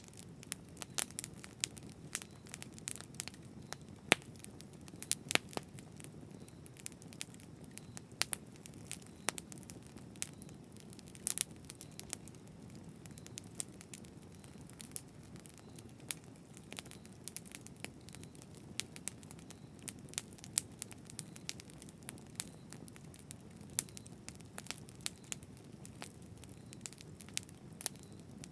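Campfire burning: a steady low rush of flame under frequent, irregular sharp crackles and pops.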